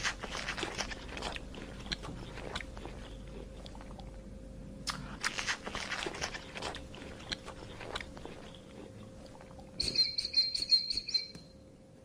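Reticulated giraffe browsing: irregular crunching and rustling as leaves and twigs are stripped and chewed, busiest in the first half. About ten seconds in, a short high chirping trill sounds for just over a second.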